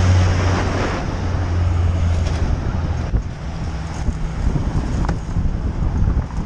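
Road noise from a moving vehicle recorded by an onboard camera, with wind buffeting the microphone. A steady low engine drone is heard for the first two seconds or so, then fades into a rough rumble of road and wind.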